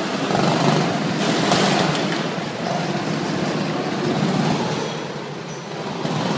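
Several go-kart engines running on an indoor kart track, their noise swelling and fading as the karts move around the hall.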